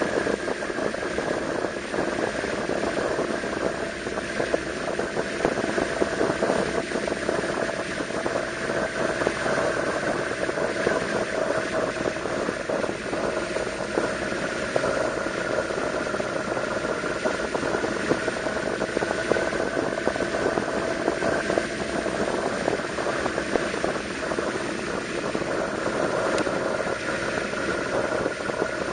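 Yamaha V-Max 1200's V4 engine running at a steady riding pace, its note sagging slightly in pitch midway and rising again near the end, with wind rushing over the rider's microphone.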